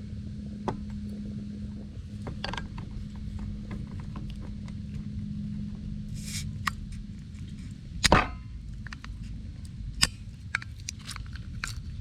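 Scattered light clicks and knocks of handling, with one louder knock about eight seconds in, over a steady low rumble.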